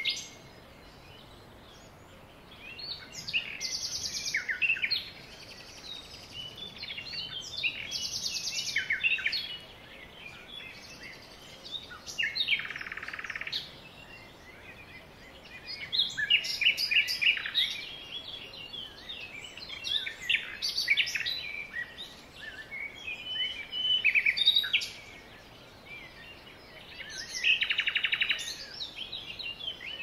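Several birds chirping and singing in overlapping bursts every few seconds, with a few short buzzy trills among the chirps.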